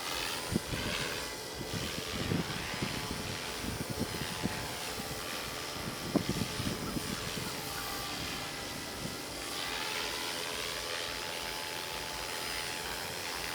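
Radio-controlled model aircraft's motor and propeller running steadily in flight, with its pitch bands sweeping slowly as it passes, over low thumps from wind on the microphone.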